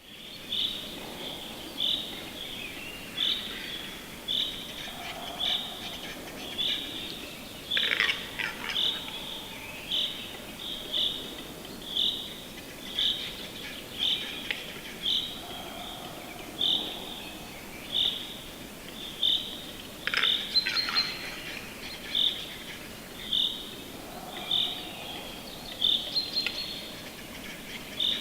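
Outdoor ambience with a bird repeating one short, high chirp about once a second over a faint hiss. Twice, about a third of the way in and again about two thirds in, a brief louder scratchy sound cuts across it.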